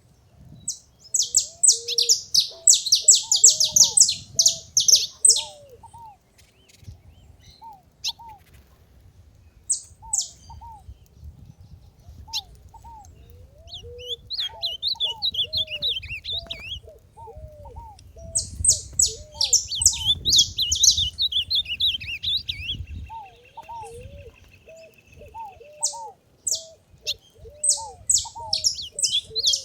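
Saffron finches chirping in spells of rapid, sharp, high notes, loudest in three bursts near the start, in the middle and near the end. Under them runs a steady string of short, lower, arching calls from another bird.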